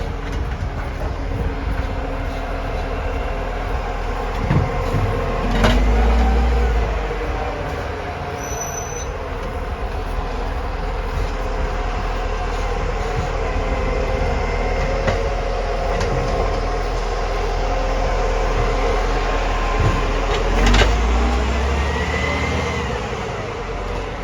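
New garbage truck running steadily with a low rumble. It gives two louder surges with sharp knocks, about six seconds in and again about twenty-one seconds in.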